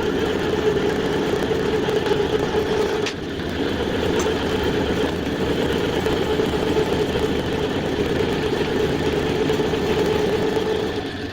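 A small electric motor on a power tool running steadily, with a brief dip about three seconds in. It starts to fall away at the very end.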